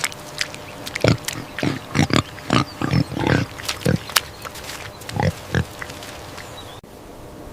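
Pigs grunting: a quick run of short, separate grunts that eases off near the end.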